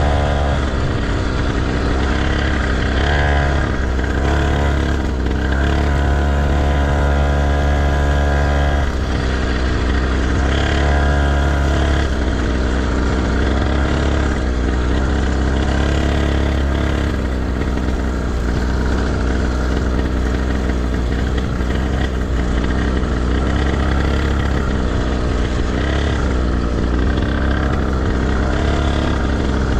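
Motocross motorcycle engine running on the track, its pitch repeatedly rising and falling as the rider revs and shifts.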